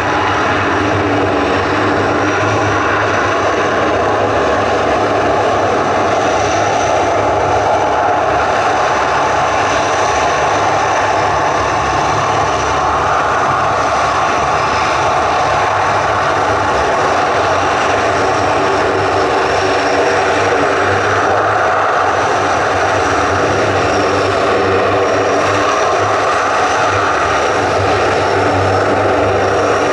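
Turboprop engines of a KC-130 transport aircraft running steadily with an even, loud propeller drone.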